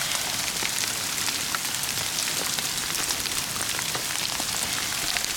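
Loud, dense crackling and pattering: a steady hiss thick with fine irregular ticks. It cuts off abruptly at the end.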